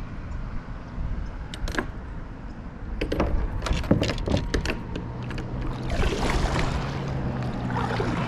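Kayak being paddled: several sharp knocks and clicks, then a wash of splashing water about six seconds in and again near the end, over a steady low wind rumble.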